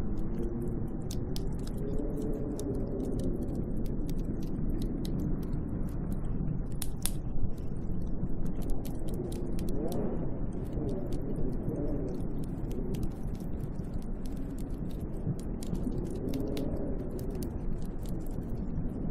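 Snowstorm wind blowing steadily and howling, its pitch wavering up and down, with scattered sharp ticks throughout.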